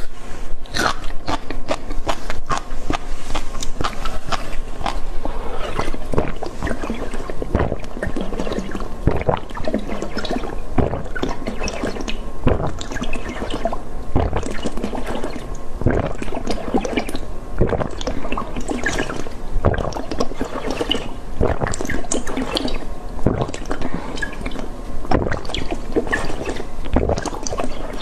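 Close-miked wet mouth sounds of someone eating: a dense, continuous run of smacks, slurps and small clicks.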